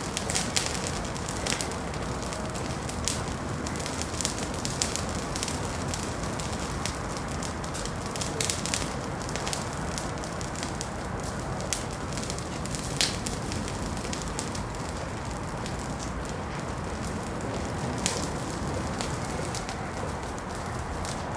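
Wood fire burning in a fireplace: a steady low rush of flames with irregular sharp crackles and pops scattered throughout.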